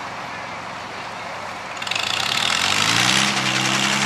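Tractor engine picking up speed about two seconds in, its pitch climbing and then holding steady at a fast run.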